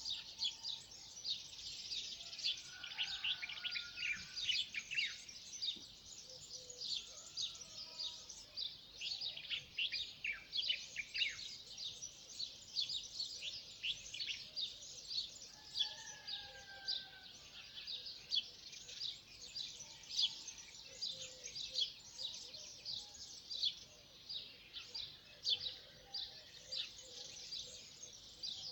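Many songbirds chirping at once in a dense, continuous chorus of quick high chirps, with a few lower, longer whistled notes from other birds now and then.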